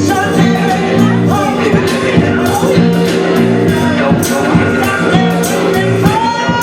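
Live band music: a steady drum beat over held, sustained chords, with a sliding lead line on top.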